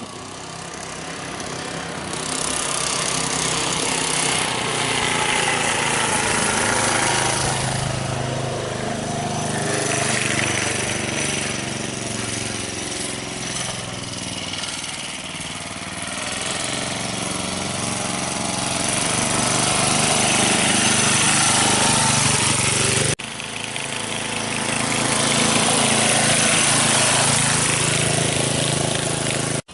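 Mini bike's small engine running as it is ridden, growing louder and fading again as it comes near and moves off. The sound breaks off abruptly about three-quarters of the way through at an edit, then picks up again.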